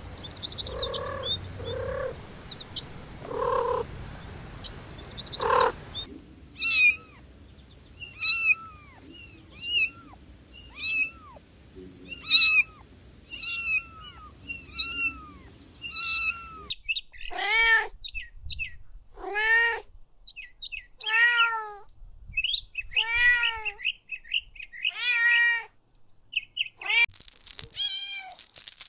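Kittens meowing over and over, roughly one meow a second, in runs that change pitch partway through, with the later meows lower and louder. Short high chirping comes at the start and again near the end.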